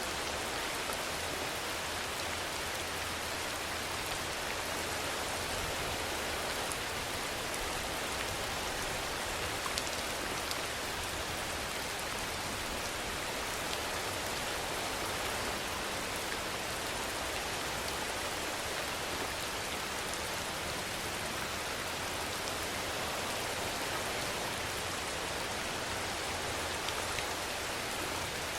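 Steady rain falling, an even hiss with faint individual drops ticking through it.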